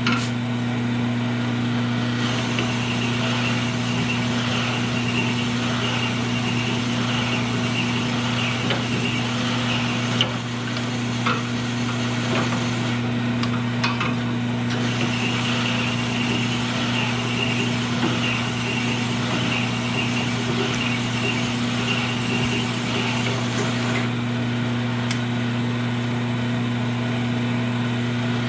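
A steady low hum, with a few light clicks and taps of small metal parts scattered through it.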